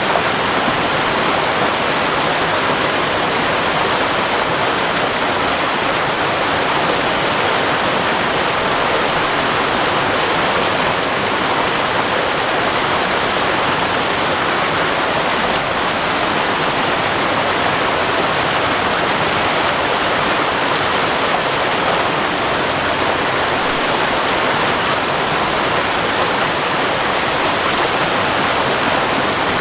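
Waterfall pouring over rock, a loud steady rush of falling water.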